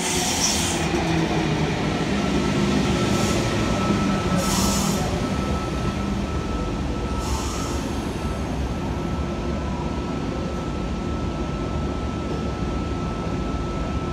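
A NSW TrainLink V-set double-deck electric intercity train pulls in alongside the platform and slows, with a steady low rumble from its running gear. A few short high-pitched bursts come in the first half, and a steady high tone sets in about two seconds in and holds.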